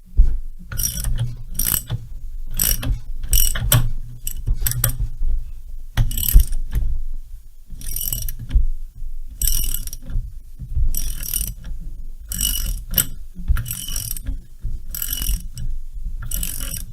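Socket ratchet wrench clicking in repeated back-and-forth strokes, about one a second, while undoing a nut on the chainsaw's flywheel.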